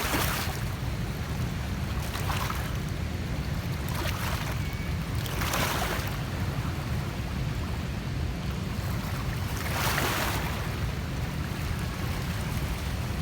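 Outdoor wind and water noise: a steady wind rumble on the microphone with five swells of rushing, wave-like noise a second or two apart. It cuts off suddenly at the very end.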